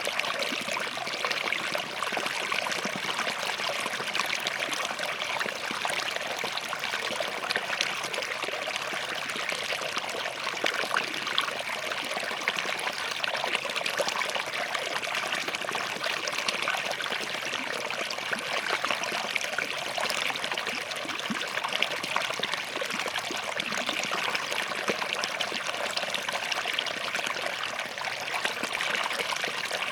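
Small forest stream flowing and splashing between rocks: a steady babble with fine, irregular trickles and splashes.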